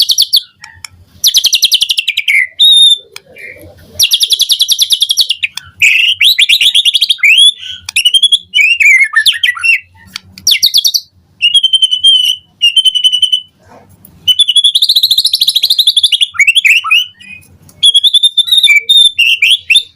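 White-rumped shama (murai batu) singing a loud, varied song. Its phrases of one to two seconds, with short pauses between them, mix rapid trills, clear whistles and quick swooping notes.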